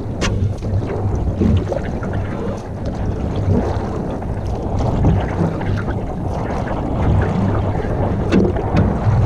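Wind rumbling on the microphone over water sounds around a canoe, with a few sharp knocks: one just after the start and one near the end.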